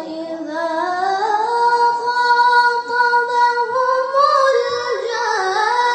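A young girl's voice reciting the Quran in melodic tajweed style, drawing out one long note that rises at the start, holds steady, then ornaments with winding turns of pitch over the last couple of seconds.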